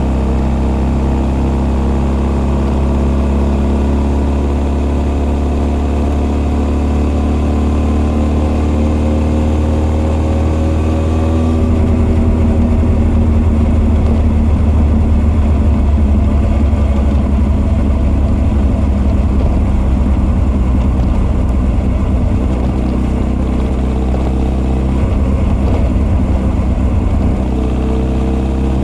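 Honda CB1300's inline-four engine running under way, with carburettor intake roar and exhaust note together. Its pitch sinks slowly for the first ten seconds or so. About twelve seconds in it grows louder and rougher as the throttle opens, then eases off again a few seconds before the end.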